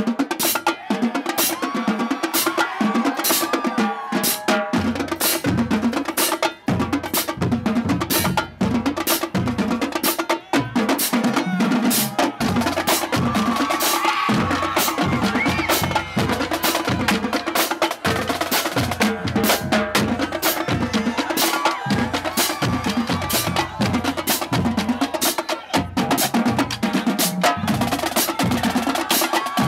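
A marching drumline playing fast in a drum-off: rapid snare strokes and rolls over pitched drums, with the bass drums coming in about five seconds in.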